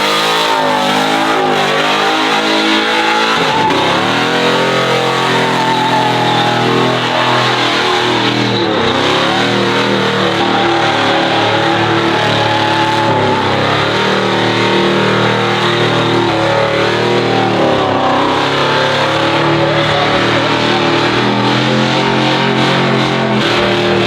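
Truck engines revving and running at a drag-racing event, with the pitch rising and falling again and again.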